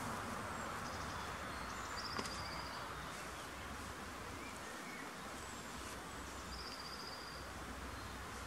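Small birds chirping over a steady outdoor hiss, with a short rapid trill heard twice, about two seconds in and again later.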